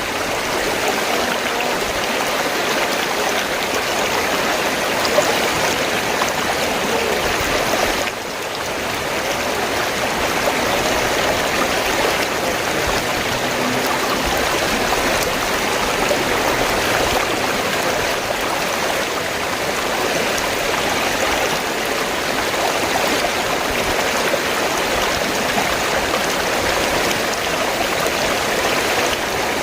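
River water flowing, a steady, even rush of water that dips briefly about eight seconds in.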